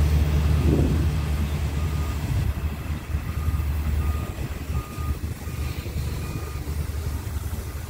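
A passing train's low rumble, loudest at first and fading as the train draws away. From about two seconds in, short electronic beeps at one steady pitch repeat every half second or so.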